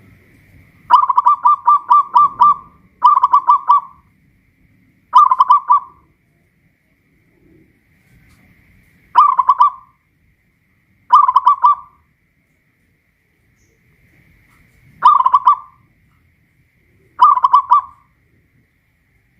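Zebra dove (perkutut) singing its cooing song: seven phrases of rapid staccato coos, the first and longest about a second in, then shorter phrases separated by pauses.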